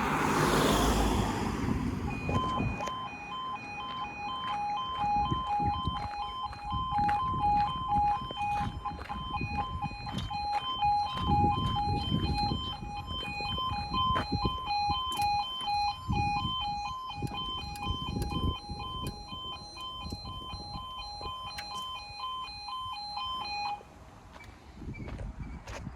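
Level crossing warning alarm sounding, two tones alternating in quick succession, starting about two seconds in and cutting off near the end. A loud rushing noise comes at the start, and low rumbles come and go underneath.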